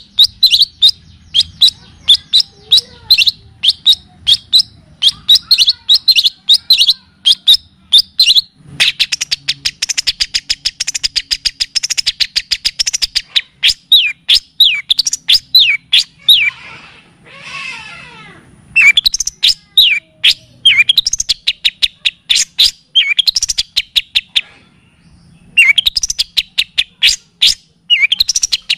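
Recorded songbird song of the kind used for masteran training: rapid sharp high chirps, broken by a fast even trill about a third of the way in and a short raspy stretch past the middle, then more chirping after a brief pause near the end.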